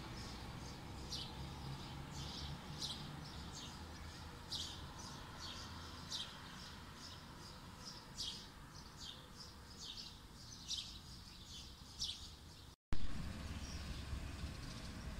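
Small birds chirping outdoors: short, high, repeated chirps about once or twice a second over a low background hum. After a brief cut near the end the chirping stops and only the steady low hum remains.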